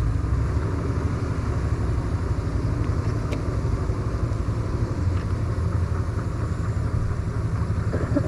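Yamaha MT-09 three-cylinder engine idling steadily through an Akrapovic titanium exhaust, a low even rumble.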